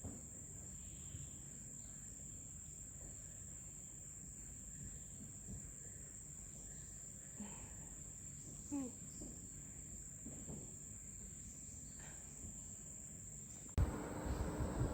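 Rainforest insects, crickets or cicadas, keep up a steady high-pitched drone, with a few faint short calls in the middle. Near the end the sound switches suddenly to a louder background with a steady low hum.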